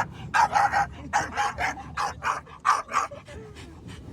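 Bully-breed dog barking in a rapid run of short, high yips, about four a second, dying away about three seconds in.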